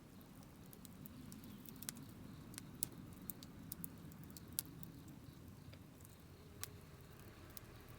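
Wood campfire crackling: irregular sharp snaps and pops, a few louder than the rest, over the low, steady flutter of the burning fire.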